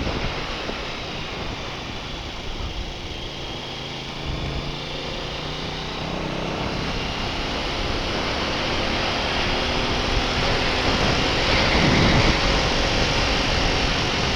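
Motorcycle running down the road, its engine note under steady wind rush on the microphone, growing gradually louder over the middle of the stretch.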